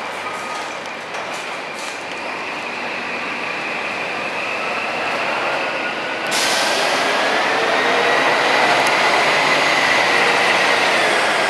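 Scania K420EB coach pulling away, its engine running under load with a whine that climbs slowly in pitch. The sound gets suddenly louder and brighter about six seconds in.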